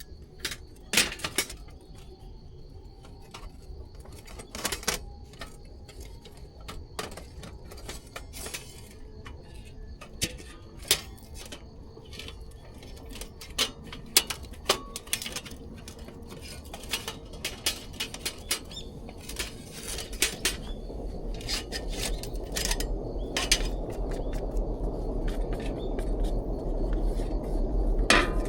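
Scattered sharp metallic clinks and knocks, like a metal fire pit's parts being handled and set together, with a steady low rushing noise that builds over the last several seconds.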